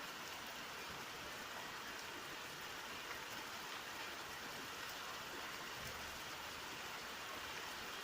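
Steady rainfall, an even hiss of many drops landing on surfaces.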